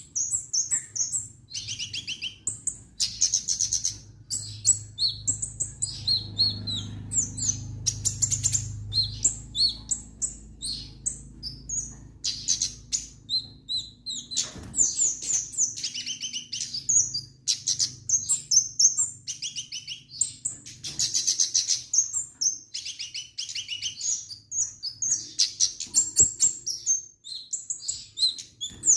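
Kemade songbird in full song: a busy, nearly unbroken stream of short high chirps and fast trills, with only brief pauses.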